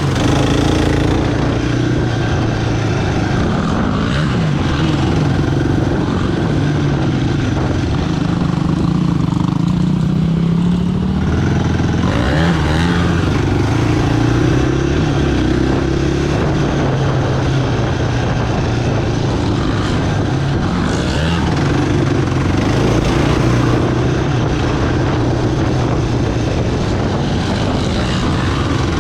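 Sport quad bike's single-cylinder four-stroke engine running under way, its pitch rising and falling as the throttle is worked.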